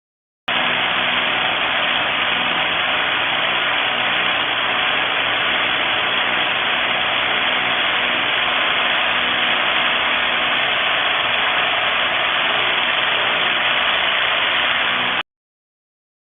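XCORT XZC06-26 SDS-plus rotary hammer running steadily and loudly, cutting in about half a second in and cutting off abruptly near the end.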